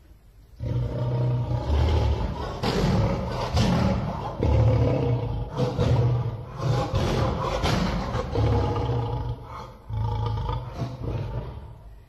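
Lion roaring: deep, rough roars start about half a second in and go on almost without a break, easing briefly about ten seconds in and fading near the end.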